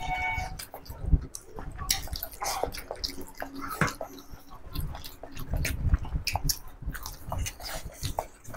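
Close chewing and biting sounds of two people eating chicken curry, rice and boiled eggs by hand: irregular wet clicks and smacks of chewing, with fingers working the rice on their plates.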